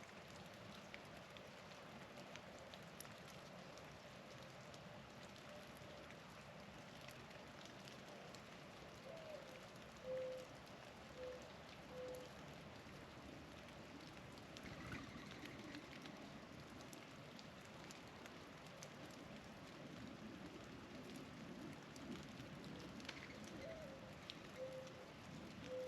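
Faint mourning dove cooing: a rising-and-falling first note followed by three shorter, level coos about a second apart, with the song starting again near the end. Behind it is a steady soft patter of falling precipitation.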